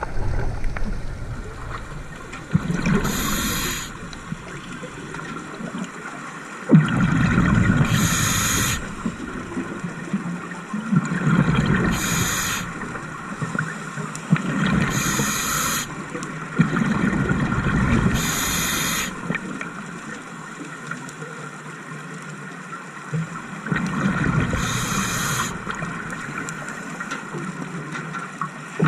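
Scuba diver breathing underwater through a regulator: a short hiss on each inhale, alternating with a low rush of exhaled bubbles, about six breaths with a longer pause past the middle.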